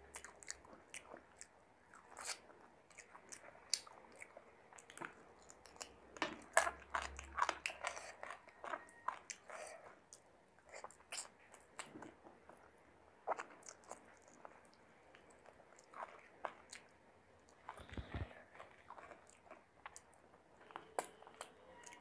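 Close-miked chewing of chicken biryani, with irregular wet mouth clicks and smacks throughout.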